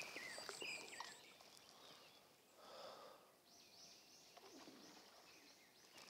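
Near silence: faint outdoor ambience with a few faint bird chirps near the start. About halfway through, a faint bird gives a short run of repeated high calls, about four a second.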